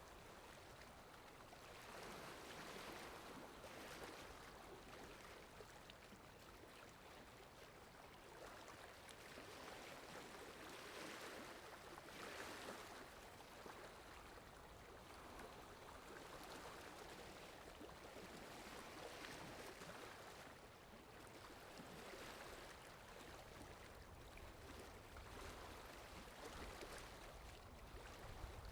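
Faint water ambience track: a steady rush of flowing water that swells and eases every few seconds.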